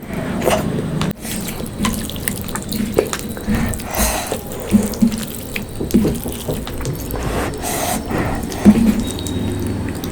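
Close-miked wet eating sounds of fish curry and rice: a steady stream of irregular smacks, squelches and clicks.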